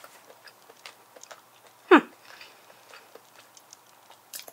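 Soft chewing and small mouth clicks from someone eating a steamed clam, with one short vocal sound falling steeply in pitch about two seconds in.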